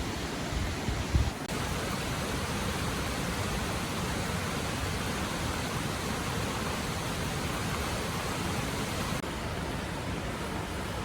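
Steady rushing of flowing river water, with a few low thumps in the first second and a half.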